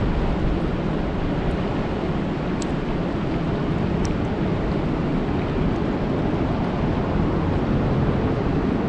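Steady rain falling on a lake, an even dense hiss weighted toward a deep low rumble, with a few faint sharp drop ticks.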